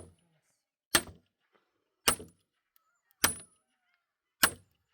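Steady, evenly paced blows of a tool on a hard object, four strikes about a second and a quarter apart, each with a short, sharp metallic ring.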